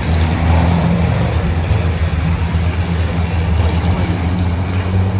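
Racing trucks' big diesel engines running on the circuit: a steady low drone with a broad rush of noise over it, holding level without any rise or fall in pitch.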